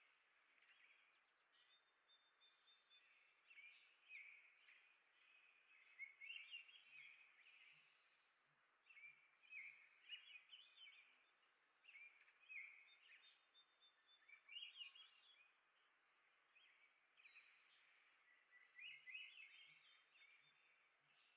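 Small songbirds chirping and twittering in quick runs of short notes, again and again, over a faint steady hiss.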